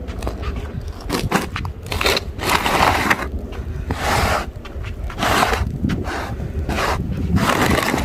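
Crunching, scraping sounds in snow, coming about once a second and unevenly spaced, over a steady low rumble.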